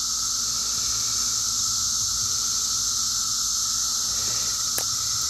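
Dense chorus of seventeen-year periodical cicadas: a steady, loud droning hiss with a steady lower whine underneath. A single sharp click near the end.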